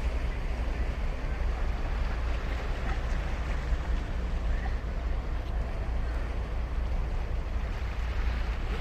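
Ocean surf washing steadily onto a sandy beach, with a constant low rumble under it.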